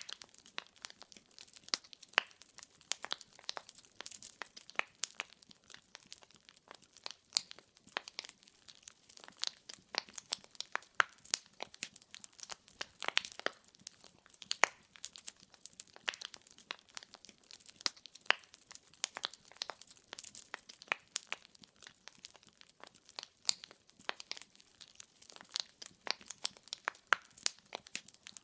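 Firewood burning in a fireplace: steady, irregular crackling and popping of the logs, with sharp snaps scattered throughout over a faint hiss.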